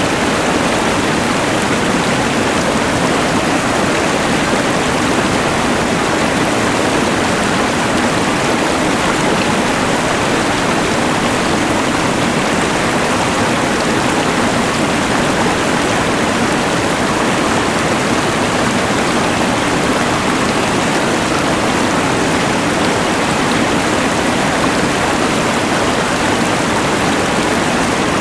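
Rushing mountain river combined with the steady hiss of a LectroFan white noise machine, an even, unbroken rush of noise.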